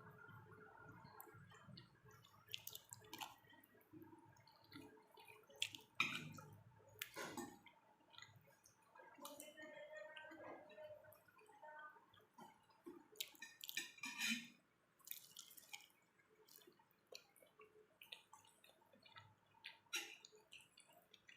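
Faint, close-up eating sounds of someone chewing pork: wet chewing and mouth clicks, with a few louder crackles about six, seven and fourteen seconds in.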